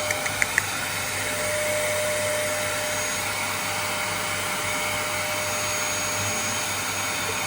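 Vacuum cleaner running steadily: an even rushing noise with a constant mid-pitched whine, and a few light clicks at the very start.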